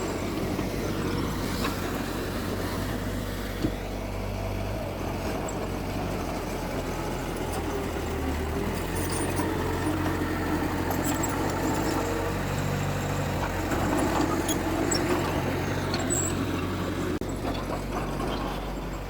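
Diesel engines of heavy earthmoving machinery running, their speed shifting up and down several times as the machines work. A single sharp click sounds a few seconds in.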